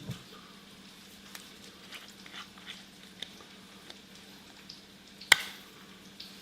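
Chicken thighs frying in oil in a pan: a faint sizzle with scattered small crackles. One sharp click about five seconds in.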